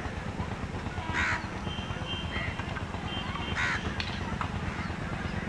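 A bird calls twice in short, loud calls about two and a half seconds apart, over a steady low rumble.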